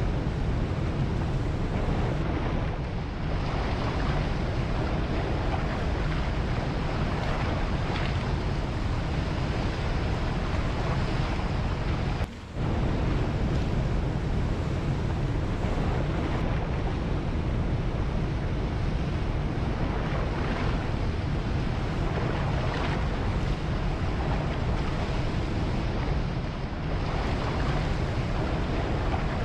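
Ocean waves washing ashore continuously, with heavy low wind rumble on the microphone. The sound dips out briefly about twelve seconds in.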